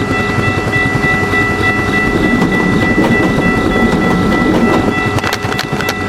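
Train running past with its wheels clattering on the rails, while a railway crossing bell keeps ringing.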